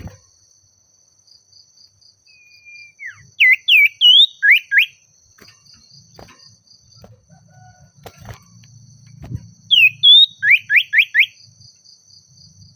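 Common iora (sirtu/cipoh) singing: two loud phrases of quick, sharply rising whistled notes, each opening with a sliding note, about six seconds apart.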